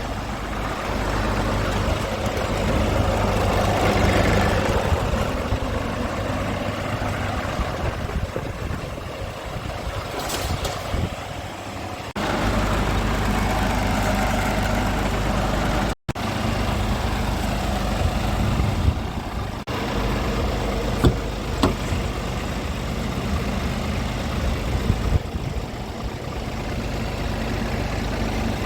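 2018 Scania R450 tractor unit's 13-litre six-cylinder diesel engine idling steadily. The sound cuts out for an instant about sixteen seconds in.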